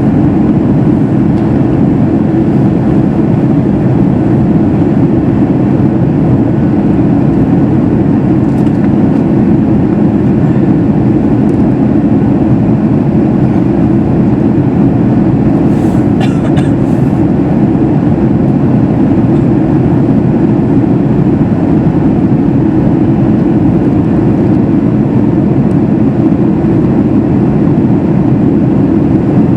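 Steady in-flight cabin noise inside a Boeing 737 MAX 8: the even, low drone of its CFM LEAP-1B engines and the airflow around the fuselage. A couple of faint clicks come about halfway through.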